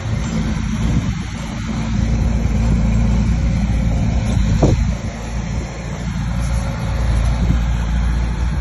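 Bulldozer's diesel engine running steadily, with a single sharp knock about halfway through.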